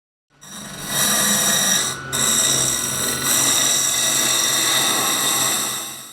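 Kokeshi woodturning lathe running with a cutting tool held against the spinning wood. It is a steady, loud mechanical whirr and hiss that fades in, breaks off briefly about two seconds in, and fades out near the end.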